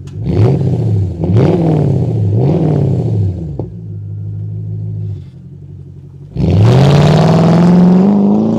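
Jaguar XK8's V8 engine heard through its exhaust: three quick throttle blips, each rising and falling in pitch, then settling to a steady idle. After a quieter stretch, a longer rev about six seconds in climbs steadily and holds high.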